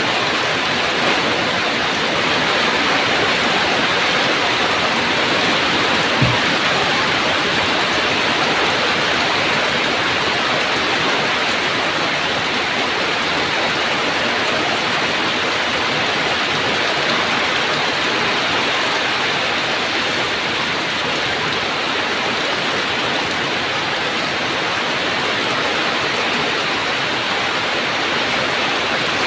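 Heavy rain falling steadily, an even rushing hiss, with one short dull thump about six seconds in.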